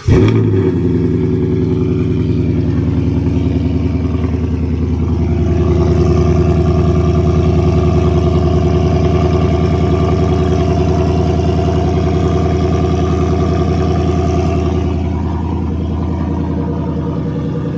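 Cold start of a 2018 Ford Mustang GT's 5.0 V8, running with one muffler missing and the resonators deleted: it fires with a sudden loud burst, then idles steadily at a raised cold idle that eases slightly lower for the last few seconds.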